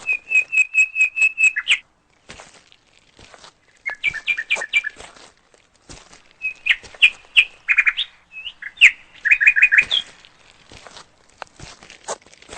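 A songbird singing in three phrases of quick repeated high notes: one near the start, a shorter one about four seconds in, and a longer, more varied one from about six and a half to ten seconds in. Faint scuffs and clicks lie between the phrases.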